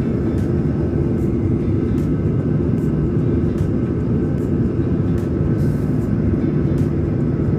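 Steady rumble of an airliner in flight, heard from inside the cabin, with a faint steady hum above it.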